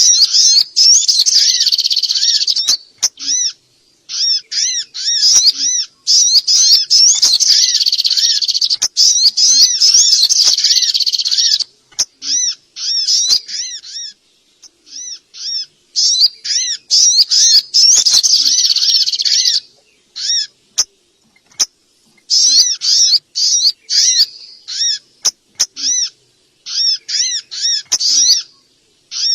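Small birds' noisy lure calls: rapid, high-pitched chirping notes repeated in dense bursts of a few seconds, broken by short gaps and abrupt stops.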